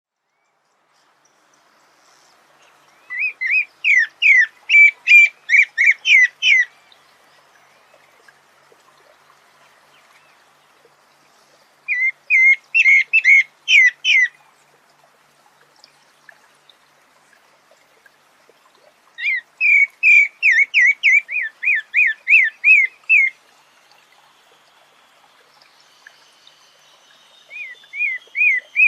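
A sabiá songbird singing in bursts of rapidly repeated, rising whistled notes, about three notes a second. Each phrase lasts two to four seconds, followed by a pause of several seconds. There are four phrases, and the last is cut off.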